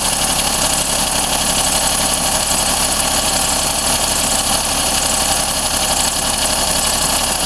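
Daihatsu Cuore L7's EJ-DE three-cylinder engine idling steadily, with a metallic ticking in the background that rises and falls with engine speed. The ticking does not come from the cylinder head and fades as the engine warms; the owner asks whether it is piston slap or a failing connecting-rod bearing.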